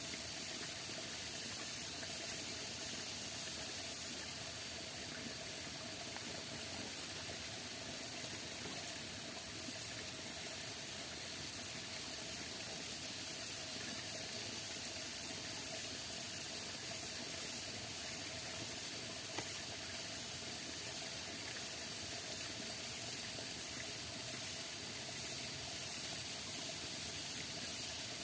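Steady rain falling, an even, unbroken hiss, with a single light tick about two-thirds of the way through.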